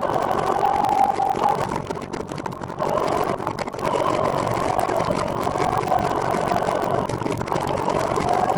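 Steady road noise from a recumbent trike in motion, with a mid-pitched hum that wavers slightly in pitch and a brief dip in level a couple of seconds in.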